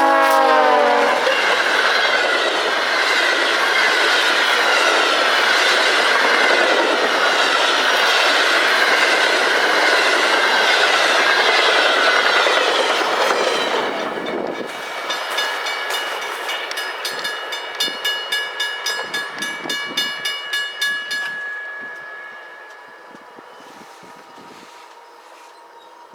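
VIA Rail passenger train passing close by. Its horn drops in pitch and cuts off about a second in, followed by a long steady rush of cars going past. From about halfway the wheels click evenly over rail joints, a little over two clicks a second, before the sound fades away.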